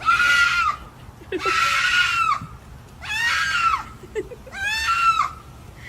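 An animal screaming loudly, goat-like: four long, high-pitched calls about a second and a half apart.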